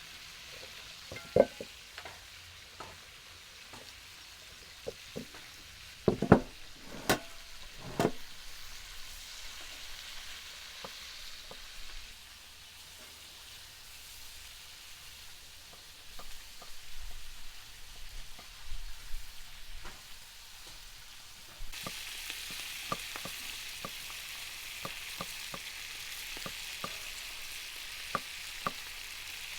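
Food frying with a steady sizzle, broken by a few sharp knocks and clicks. The loudest knocks come about six to eight seconds in. The sizzle suddenly gets louder about two-thirds of the way through.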